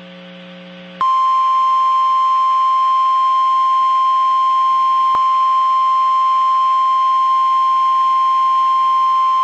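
NOAA Weather Radio warning alarm tone, a single steady beep near 1 kHz that starts about a second in and holds unbroken, the signal that a watch or warning broadcast follows. Before it, a low steady hum from the radio.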